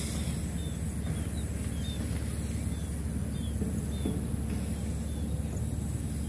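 Open-air ambience: a small bird chirps over and over, about twice a second, over a steady high-pitched hum and a low rumble.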